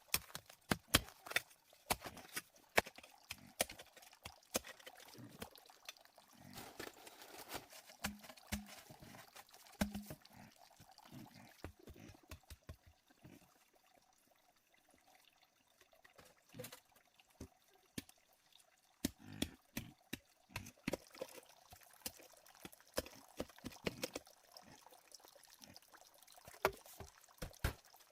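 Irregular sharp clicks and knocks, scattered and uneven, with a quieter stretch about halfway through.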